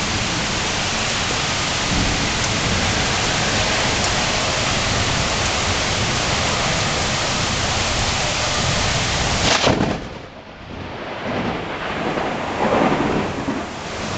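Heavy rain pouring steadily during a thunderstorm. About ten seconds in, a sharp click and the sound drops abruptly to a quieter, uneven rumble that swells near the end.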